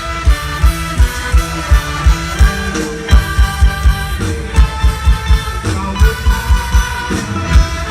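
Mor lam band music played loud through a large concert sound system. A heavy kick drum beats about three times a second under a sustained melody line.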